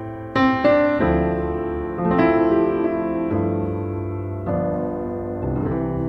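Background music on piano: slow chords struck about every second or so, each left to ring and fade.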